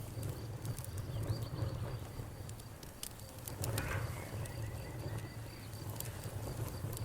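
Campfire crackling, with scattered sharp pops over a steady low rumble, while crickets chirp in a rapid, even pulse. A brief louder swell comes a little before the middle.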